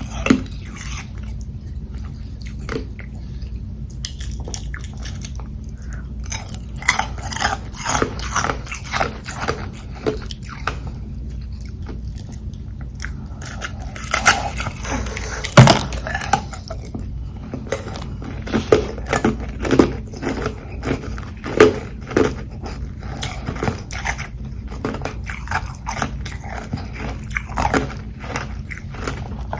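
Close-miked biting and chewing of frozen carbonated-water ice: irregular sharp crunches in clusters, the loudest about halfway through, over a steady low hum.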